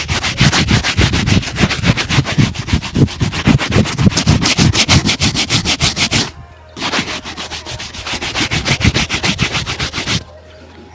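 Shoe being buffed in rapid back-and-forth strokes, about six a second, in two long runs with a short break a little past halfway.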